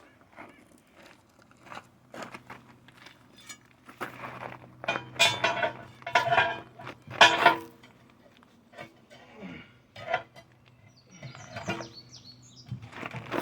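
Steel tire iron clinking and scraping against the wheel and tire bead while a big truck tire is pried off by hand, with a few louder scraping bursts in the middle.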